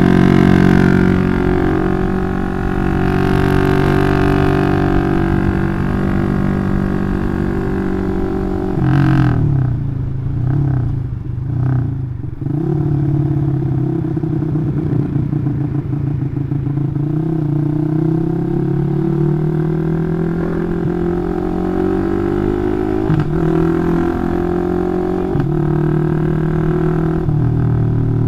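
Bored-up 180cc Yamaha Jupiter MX single-cylinder four-stroke motorcycle with an aftermarket Requsan Special free-flow exhaust, being ridden under moderate throttle. The engine note dips and falls briefly around ten seconds in as the throttle is eased, then climbs again, stepping down in pitch a few times near the end as it shifts up.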